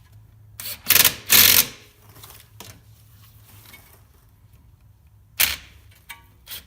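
A ratchet wrench clicks in short bursts while tightening the 13 mm brake caliper bolts, loudest about a second in and again near the end.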